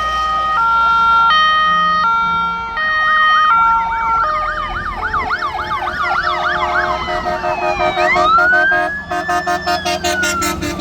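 Fire engines in a passing procession sounding their sirens together. For about four seconds a two-tone horn steps between a high and a low note, then several sirens overlap with fast up-and-down yelps. Near the end a slow wail rises and falls, and a rapid pulsing tone joins it.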